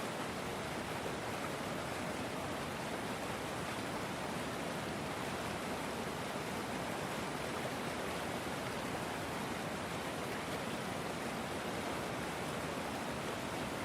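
River water flowing, a steady, even rush of moving water with no breaks or changes.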